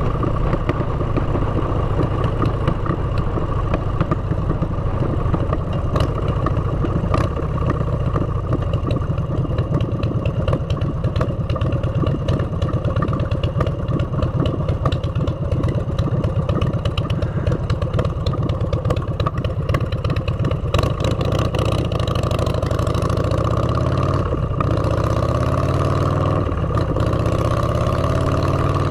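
Motorcycle engine running steadily through aftermarket exhaust pipes while riding. Near the end the engine pitch rises and falls as the revs change.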